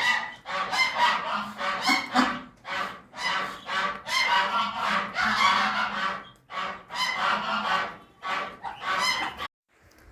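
Birds calling: a dense run of loud, repeated calls that follow one another almost without a break, then stop abruptly about half a second before the end.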